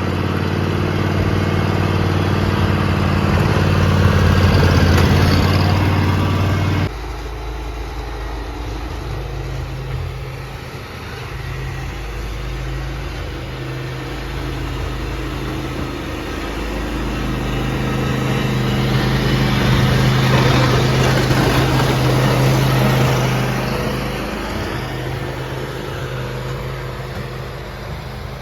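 Engines of snow-clearing equipment running, with a steady low hum. A loud engine sound breaks off abruptly about seven seconds in. After it comes a quieter engine that grows louder for a few seconds as it works, then eases off.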